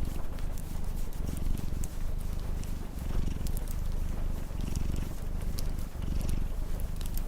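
Domestic cat purring, a low rumble that swells and dips with each breath, over the scattered crackles and pops of a wood fire.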